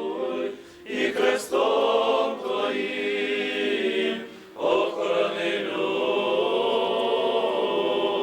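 Choir singing. The voices come in about a second in, break off briefly about four seconds in, then resume in a long held phrase.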